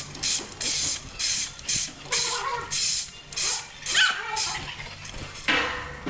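Stall bedding being sifted and shaken with a manure fork: a quick run of swishing, rattling strokes, about two or three a second. A short rising chirp about four seconds in.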